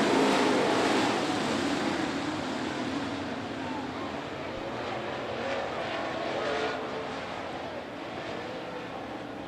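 A field of dirt late model race cars at full throttle off the green-flag start. The engine noise is loudest at first and fades steadily as the pack pulls away.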